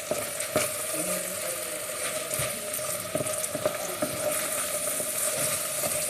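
Risotto sizzling and bubbling in the pan as it cooks down towards dry, with a few sharp clicks over a steady hum.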